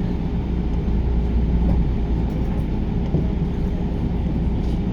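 Steady running noise inside a JR commuter train carriage at speed: an even low rumble of wheels on the rails and the running gear beneath the floor.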